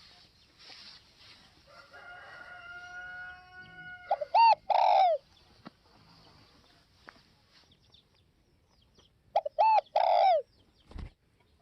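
Spotted dove cooing, two calls about five seconds apart. Each call is a couple of short notes followed by a longer coo that falls in pitch.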